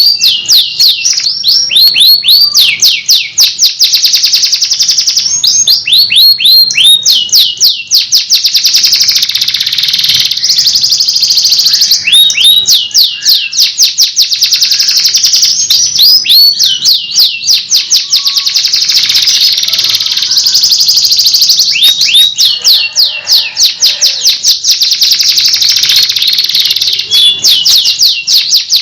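Domestic canary singing nonstop: rapid trills of repeated high, downward-sweeping notes, moving from one trilled phrase to the next every few seconds without pause.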